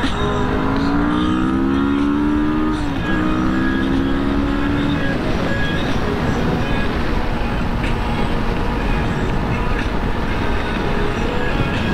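Kawasaki Vulcan S 650's parallel-twin engine accelerating: its pitch rises, drops at an upshift about three seconds in, rises again, then settles into a steady cruise drone under wind and road noise.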